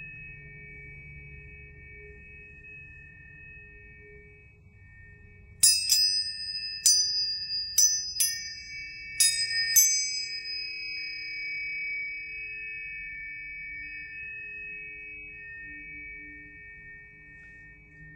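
Planetary tuning forks ringing with steady sustained tones. About six seconds in, six sharp strikes come over about four seconds, setting off a bright high ring that fades away over the next several seconds while the lower tones carry on.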